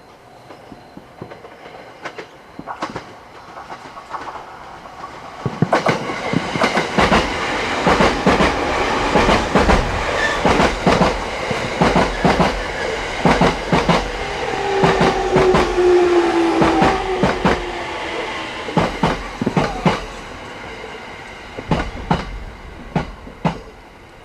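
A JR Narita Line train passing close by, its wheels clacking rapidly over the rail joints, with a brief squeal from the wheels partway through. It builds up over the first few seconds and fades toward the end, with a few last clacks.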